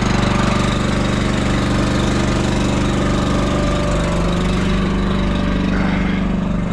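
Pony motor on a heavy-haul hydraulic trailer, a small engine, idling steadily in freezing cold.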